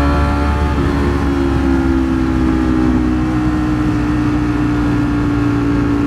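Ducati Streetfighter V4 S's V4 engine cruising at highway speed, its note holding steady and easing slightly lower, with wind rush heard from the rider's position.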